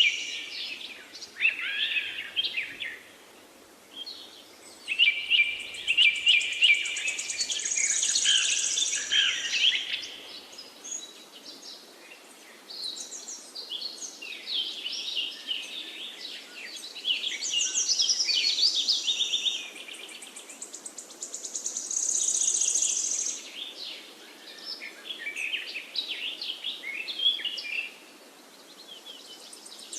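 Songbirds singing, with many chirps and quick trills coming in overlapping bursts and brief lulls between them, over a faint steady background hiss.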